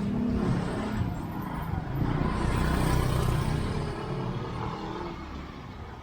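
A motor vehicle passing close by, its sound building to a peak about three seconds in and then fading away.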